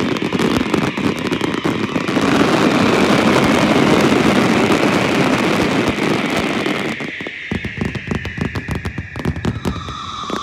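Fireworks and firecrackers going off in rapid, dense crackling over a steady rumble. About seven seconds in the rumble drops and the crackling thins to separate sharp cracks, with a faint falling whistle behind them.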